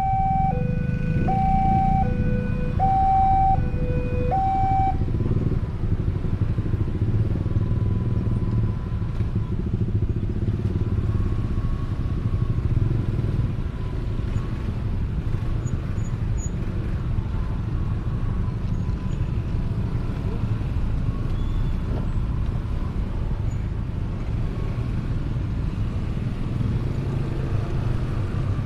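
A two-tone siren, switching between a low and a high note about once a second, for the first five seconds before it stops. Under it and after it comes the steady low rumble of a motorcycle engine and road noise.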